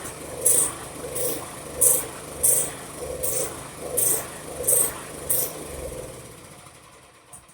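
Small engine of a PowerMate garden tiller turning over in a steady rhythm, about one and a half pulses a second, then slowing and fading out near the end.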